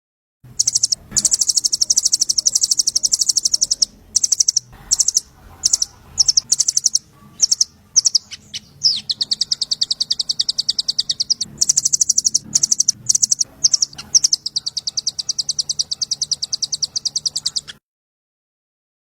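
Small songbird singing a fast rattling 'trotol' trill, a rapid run of high chirps, used as master song for training magpie robins. Long runs alternate with short bursts and brief gaps, and the recording cuts to dead silence near the end.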